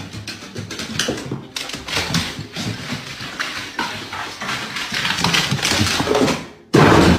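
A dog making a run of rough, irregular noises, with a short, loud burst of noise near the end.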